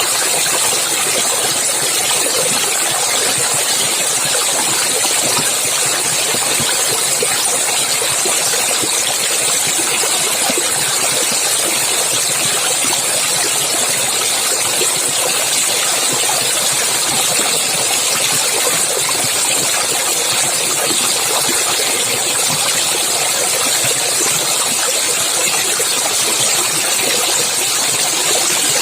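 Clear stream water flowing and splashing steadily, a constant rushing hiss with a strong high edge.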